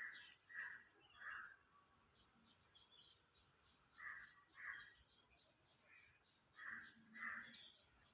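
A crow cawing in short harsh calls: three in a row at the start, then two about four seconds in, then two more near the end. A faint high chirp repeats evenly underneath.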